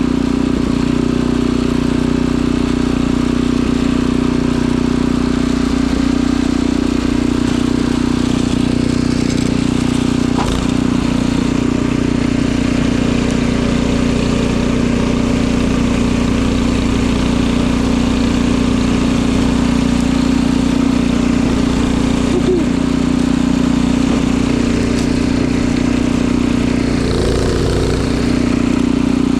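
Snowblower engine running steadily at working speed.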